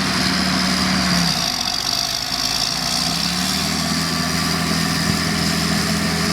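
Claas Challenger 55 crawler tractor's diesel engine running steadily. Its note drops away about a second in and picks up again around three seconds.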